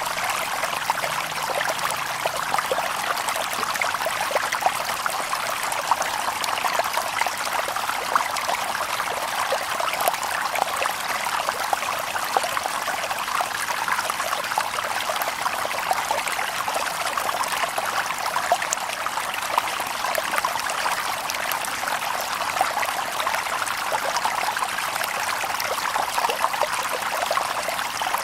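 Shallow stream babbling over stones: a steady rush of water with many small splashes running through it.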